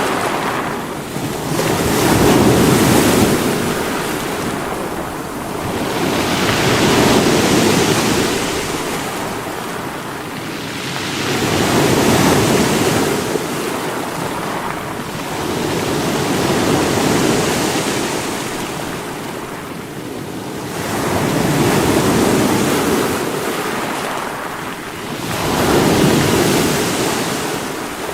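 Sea waves breaking against rocks, a rushing wash that surges and ebbs every four to five seconds, about six surges in all.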